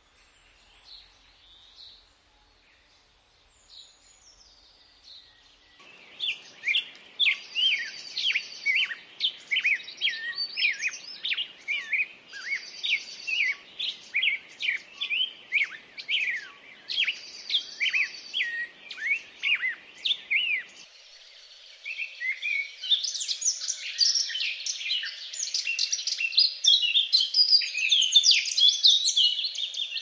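Birds calling: faint for the first few seconds, then from about six seconds a quick run of short chirps and whistles repeated over and over. About twenty-one seconds in it gives way to a denser, higher chattering that grows louder towards the end.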